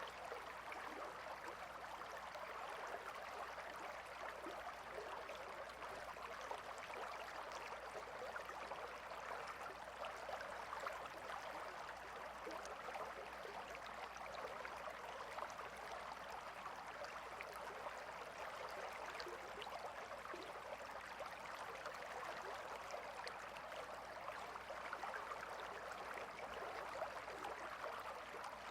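Gentle river flowing: a steady, even rush of running water.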